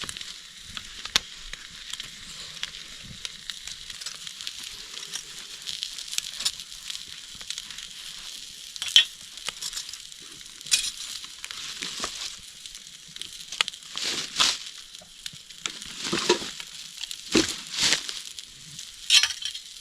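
A burger sizzling over a campfire: a steady high hiss of frying, broken by sharp crackles and pops that come more often and louder in the second half.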